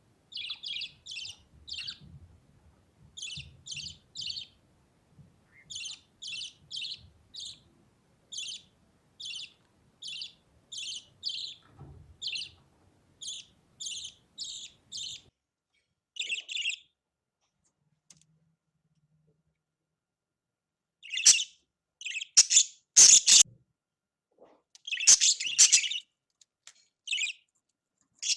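Young budgerigar chirping: runs of short high chirps, about two or three a second, then after a pause of a few seconds a burst of louder, harsher calls.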